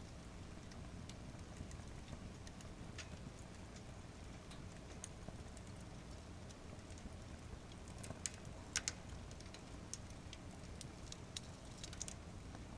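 Wood fire burning in a fire-pit stand piled with more firewood than it holds, crackling with scattered sharp pops over a steady low rumble of flames. The loudest pops come about two-thirds of the way through.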